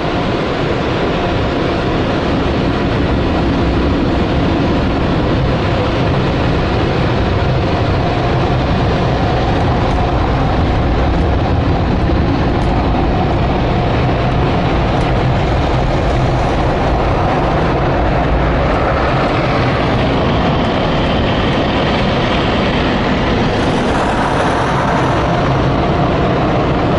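Automatic car wash equipment working over a car: a loud, steady wash of noise with no break.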